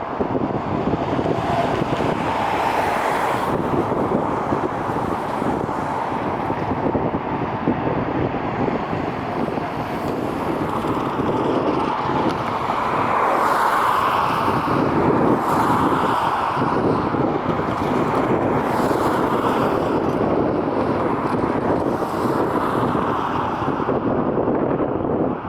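Wind buffeting the microphone over a steady, loud rumble of engine noise, swelling slightly in the middle.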